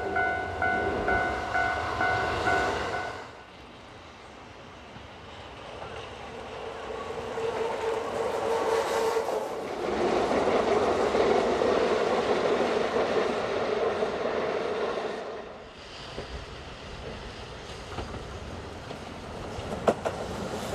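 Keihan 2600 series electric train running past on its rails, the rolling noise swelling to its loudest about halfway through, with sharp clicks of wheels over rail joints near the end. For the first three seconds a ringing tone repeats about twice a second, then stops.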